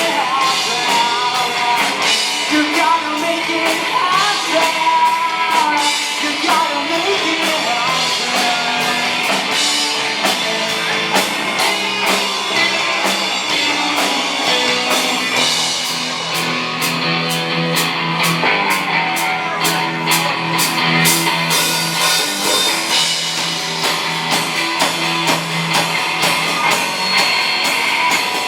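Live rock band playing: a singer over electric guitar, bass and drum kit. The singing drops out about halfway through and the band plays on, with steady cymbal hits.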